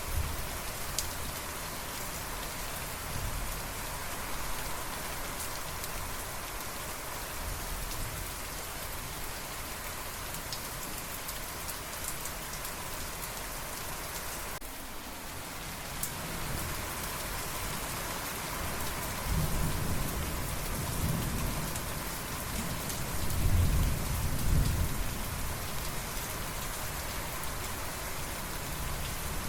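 Steady rain falling on a surface, with scattered drop ticks, and rolls of low thunder rumbling through the second half, loudest a little past two-thirds of the way in.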